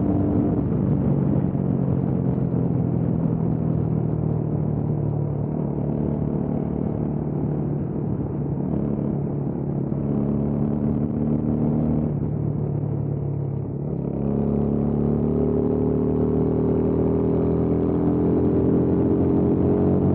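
Motorcycle engine running under way, with a steady low note. About two-thirds of the way through the sound dips briefly, then the engine note climbs steadily as it accelerates.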